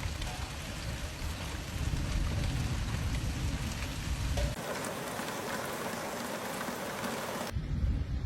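Heavy rain pouring down as a steady hiss, with a deep rumble beneath it in the first half. The sound changes abruptly twice, about four and a half and seven and a half seconds in.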